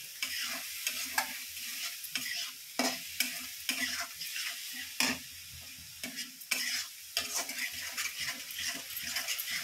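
Wet onion, ginger-garlic and ground-spice masala sizzling in hot oil in a non-stick kadai, with irregular strokes of a spatula stirring and scraping it over the steady sizzle. A splash of water has just gone in so the spices fry without burning.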